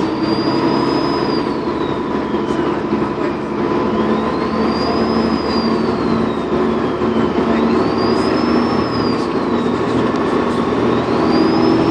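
Dennis Trident 2 bus's diesel engine running under load, with its turbocharger whistle rising and falling in pitch, repeated about every three and a half seconds.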